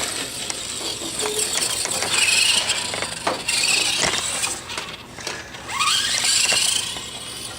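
Electric RC car motor whining, the pitch rising as the car speeds up, with a few sharp knocks along the way.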